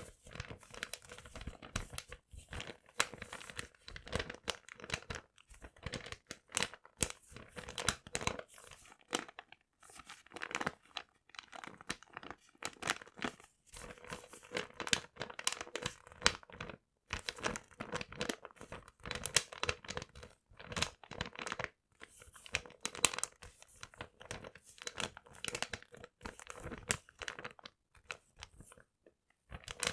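Paper crinkling and tearing: irregular bursts of crackle with brief pauses between them.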